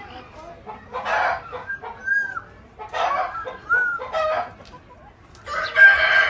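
Chickens clucking and squawking in short calls, then a rooster crowing loudly near the end.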